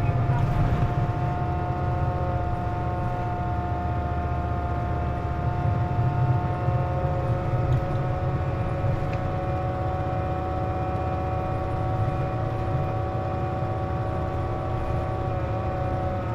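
Hino KC-JP250NTN city bus heard from inside the cabin: a low engine rumble with a steady multi-tone whine that slowly rises in pitch, shifting just before the end. This whine is the unusual noise the bus makes with its air conditioning running.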